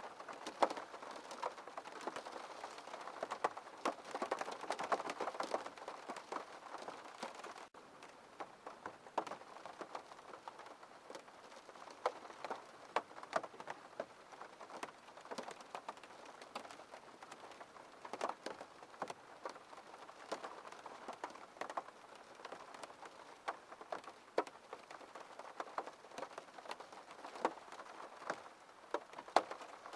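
Rain falling on a window pane: a steady patter with many separate drops tapping the glass, a little quieter from about eight seconds in.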